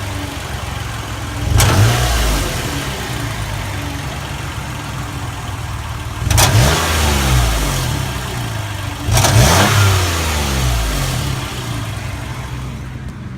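2008 Toyota Sienna's 3.5-litre V6 idling and blipped three times, each rev rising quickly and then settling back to idle. The engine has a clicking, tapping sound that the owner traces to the exhaust.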